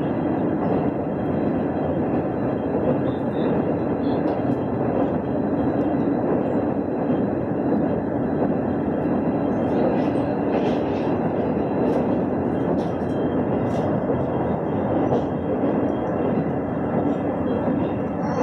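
The Ranggajati passenger train running at speed, heard from on board: a steady rumble of wheels on rail that holds level throughout.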